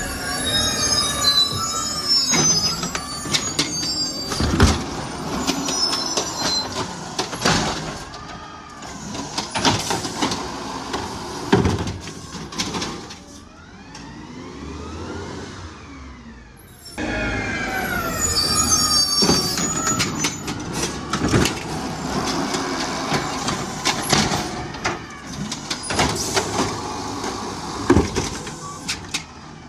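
Garbage truck at work: hydraulics whining up and down in pitch, with high squeals and repeated clanks and bangs. Two busy stretches of this are split by a quieter lull about halfway through.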